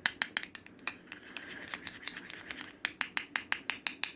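Spoon stirring mashed banana with breast milk in a small bowl, clicking against the bowl in quick strokes, irregular at first and then an even six or so clicks a second.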